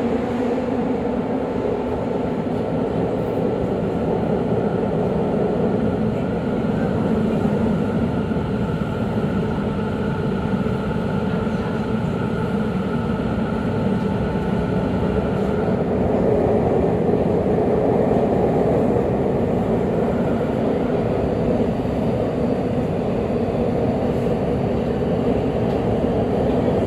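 Running noise of a Tobu 50000-series electric train heard inside the car in the subway tunnel, a steady rumble of wheels and motors between stations. A faint steady whine sits above the rumble for about ten seconds in the middle.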